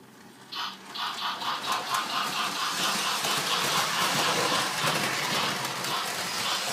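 Model train running on its track: a rhythmic clicking that quickens about a second in and fills out into a steady mechanical rattle.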